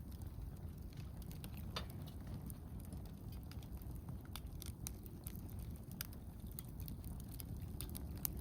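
Wood campfire crackling: irregular sharp pops and snaps from the burning wood over a low, steady rumble, with one louder pop near the end.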